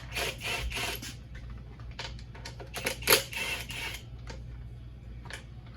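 Clicking, scraping and rattling of hand tools and small metal parts being handled, in several short bursts over a steady low hum.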